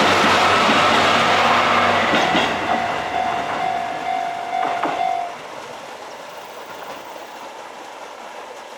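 A JR Tadami Line diesel train going over the crossing and fading away, its wheels clacking over the rails. A steady tone sounds about three seconds in and cuts off suddenly about five seconds in, leaving a much quieter background.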